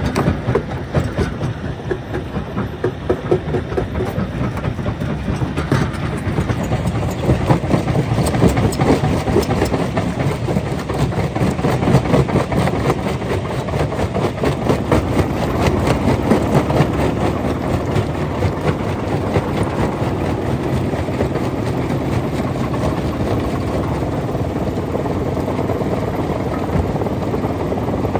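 Stone-crushing machinery running under load: a steady heavy drone under a dense, fast clatter of rock being broken and rattled through. The clatter is busiest in the first half and settles into a more even rumble later on.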